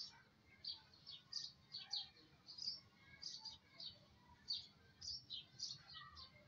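Faint, repeated short chirps of small birds, irregular, about three a second.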